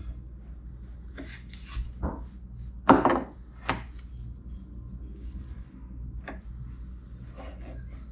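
Bondo body filler being pressed and worked into a hole in a plastic fridge door: scattered short scrapes and knocks, the loudest about three seconds in.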